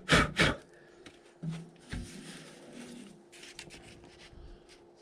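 Handling noises while clear coat is measured out: two sharp knocks or clatters right at the start, then scattered light clicks and brief rustles from tins and a mixing cup, over a faint steady hum.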